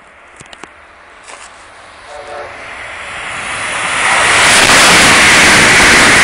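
Amtrak Acela Express high-speed trainset passing through a station at speed: a rush of wheel and air noise that swells over about two seconds and then holds loud and steady.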